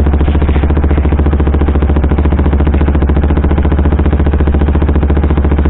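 KTM sportbike engine running at a steady pace with a rapid, even pulse, on a Powertronic ECU map.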